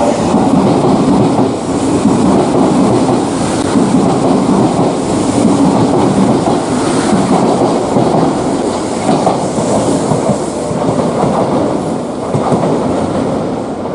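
Electric train running along the track, its wheels clattering over the rail joints in a steady, loud rumble that eases slightly near the end.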